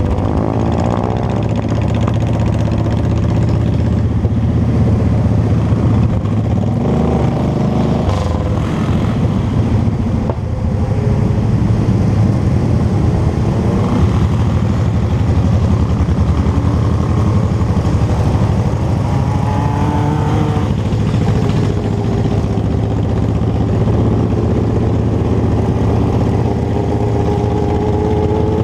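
Motorcycle engine running on the road, steady and loud, its pitch sweeping down and up several times as the throttle opens and closes through the gears.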